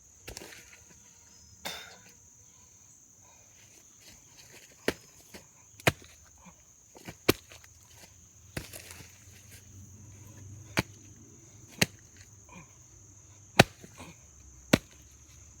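Metal shovel striking and digging into wet dirt, eight sharp strikes spaced a second or so apart from about a third of the way in.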